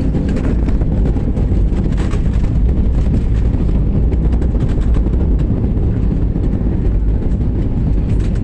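Steady, loud low rumble of aircraft cabin noise: engine and airflow drone heard from inside the plane.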